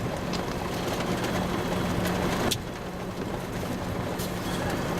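Vehicle engine idling with a steady low hum, heard from inside the cab over a noisy haze. A sharp click comes about two and a half seconds in.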